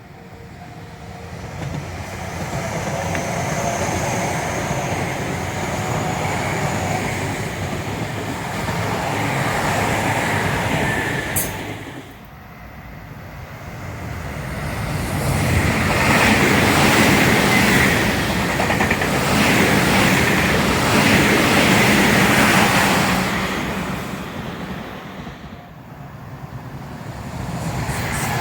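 Tobu Tojo Line electric trains passing, one after another, with rumbling wheel-on-rail noise. Each pass swells and fades. The first fades about twelve seconds in, the second is loudest in the middle, and another is approaching near the end.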